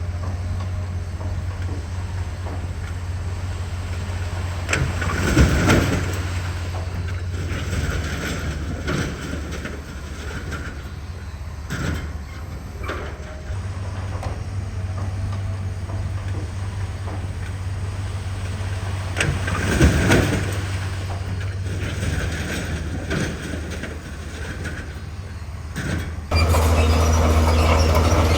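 Heavy diesel earthmoving machine running steadily, with clanks and scraping surges of metal working through debris about five seconds in and again around twenty seconds. Near the end the sound switches abruptly to a louder engine.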